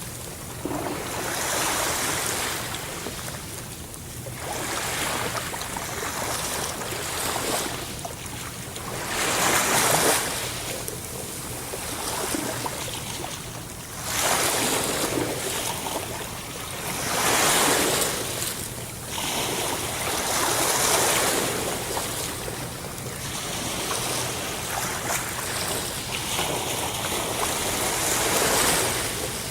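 Sea waves breaking and washing in, a steady hiss of surf that swells into a louder rush every few seconds and then draws back.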